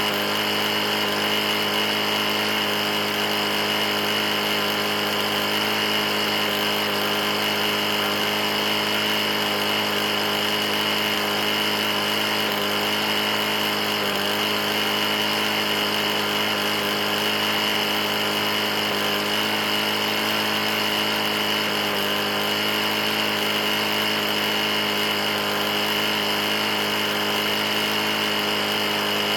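Briggs & Stratton E450 single-cylinder four-stroke mower engine running steadily at constant speed. The engine has a bad knock after being run low on oil.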